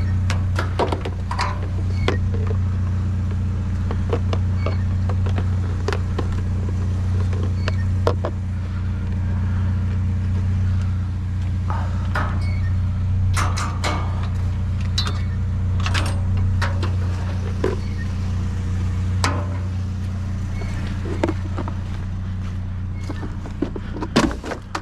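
A vehicle engine idling steadily, a constant low hum, with scattered clanks, knocks and rattles of objects being handled and moved in a dumpster.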